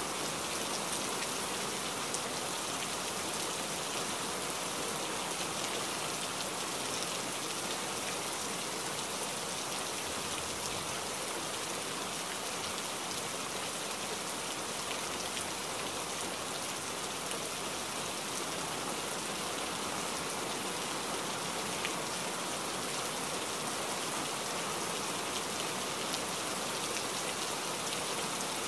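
Steady rain falling in a forest: an even hiss of many drops that neither builds nor eases.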